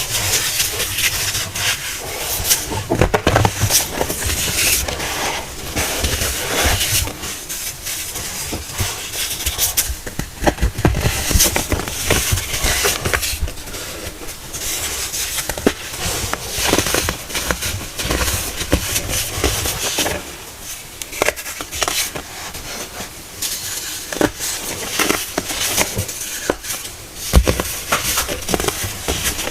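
Compressed baking soda cones being crushed, with a continuous dense crunching and crackling as the powder crumbles.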